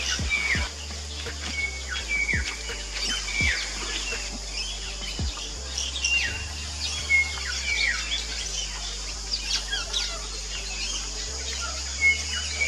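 Fairy martins giving repeated short chirps and twitters around their mud nests, over background music.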